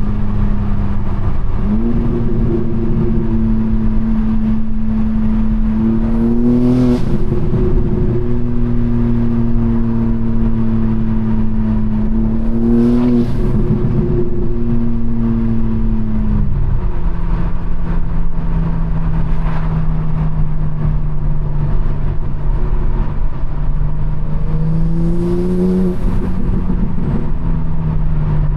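BMW M4 Competition's twin-turbo straight-six engine and loud exhaust droning at a steady cruise. The pitch rises briefly and settles a few times, and drops to a lower steady note about two-thirds of the way through.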